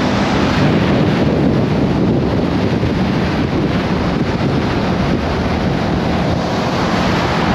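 Heavy wind rush buffeting the microphone on a moving Kawasaki Ninja motorcycle, with the engine running steadily beneath it.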